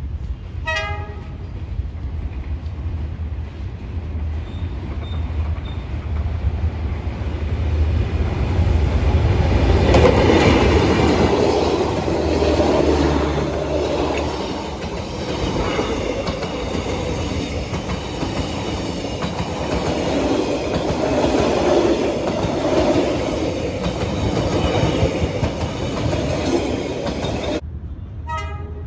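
D19E diesel-electric locomotive approaching and passing at close range, followed by passenger coaches rolling by with wheels clattering over the rail joints. A short horn blast sounds about a second in.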